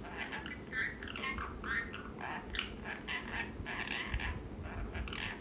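Pet parrot calling: a string of short chirps and squawks, a few a second, some sliding in pitch. The owner takes it for the bird being upset that the TV has been turned down.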